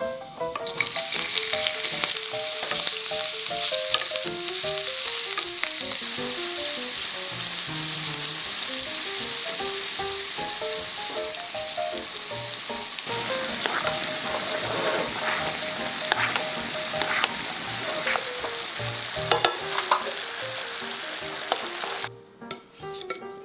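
Food sizzling as it fries in a hot pan, starting just under a second in and cutting off abruptly near the end, with a few utensil clicks in the second half. A light background melody plays underneath.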